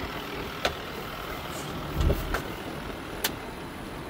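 Ford F-550's 6.7-litre Power Stroke V8 diesel idling steadily, with a few sharp clicks and a dull thump about halfway through.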